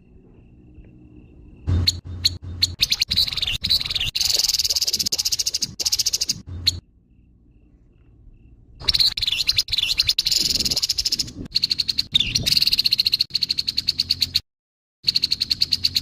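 Grey-headed babbler giving its harsh call: bouts of rapid, densely repeated chattering notes, three bouts with short pauses between them, the second one cut off abruptly.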